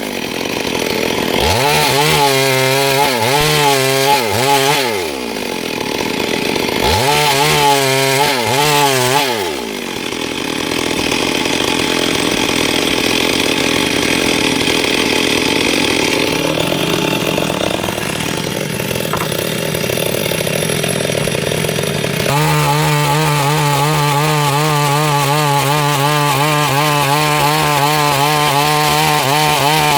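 Stihl MS 382 two-stroke chainsaw revving up and down twice, then running pulled down under load for about twelve seconds as it cuts through wood. Near the end it holds a steady high speed.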